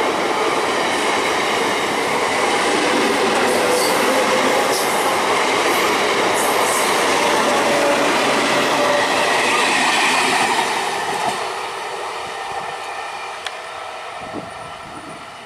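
Passenger train passing at speed, its wheels running on the rails in a loud, steady rush. After about eleven seconds the sound fades as the train draws away.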